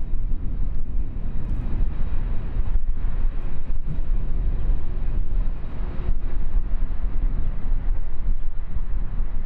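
Boeing 767 jet engines rumbling steadily, mixed with wind buffeting the microphone.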